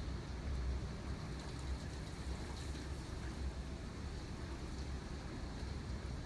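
Hurricane-force wind blowing steadily, a deep rumble with a hiss above it.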